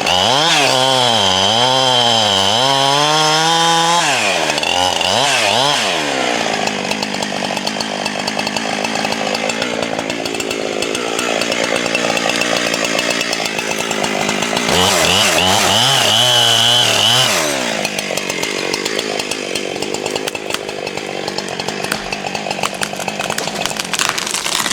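Chainsaw engine running hard while cutting through wood, its pitch wavering up and down as the chain loads and frees up. The engine note is clearest at the start and again for a couple of seconds past the middle.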